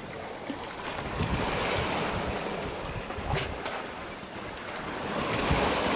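Seawater rushing and splashing along the hull of a small sailboat under way, with wind buffeting the microphone. The rush swells about a second in and again near the end.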